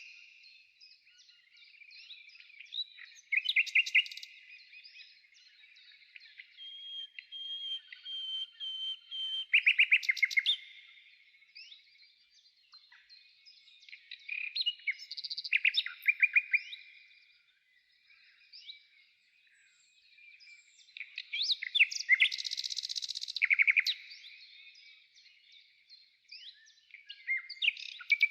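Songbird singing in separate phrases of rapid trills and chirps, with short pauses between them.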